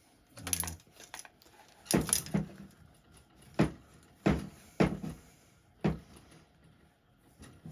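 Sharp metal clicks and knocks, around seven spread irregularly, from parts being handled while a threaded fitting on an air rifle is unscrewed.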